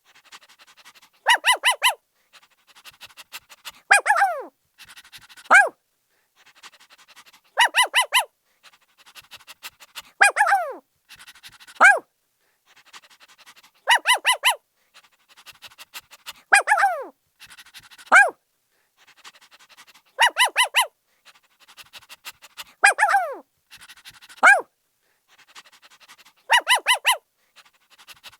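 Puppy barking: high-pitched yips, some in quick runs of about four and some single yips that fall in pitch, coming every few seconds in a repeating pattern, with softer quick panting between.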